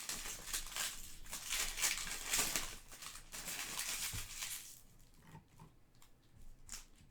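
Foil trading-card pack wrappers crinkling and tearing as packs are opened and cards handled, in irregular bursts that die down to faint rustling about five seconds in.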